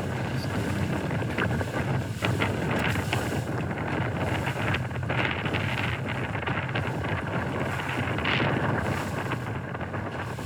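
Strong wind buffeting the microphone on open water, with waves splashing and slapping and a low steady hum underneath.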